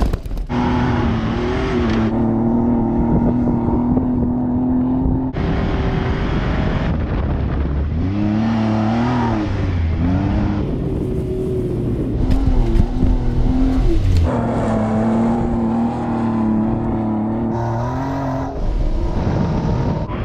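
Jeep Wrangler JK's V6 engine revving and pulling hard as the Jeep is driven over dirt, its pitch rising and falling. The sound changes abruptly several times where separate takes are cut together.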